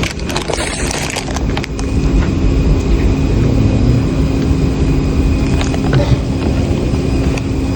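Steady low rumble inside a moving vehicle's cabin, with a constant hum under it, growing louder about two seconds in.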